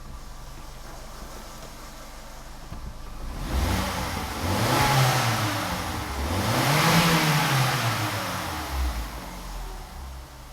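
Car engine idling, then revved twice, about three and a half seconds in: each time the pitch rises and falls back over a couple of seconds before it settles to idle again.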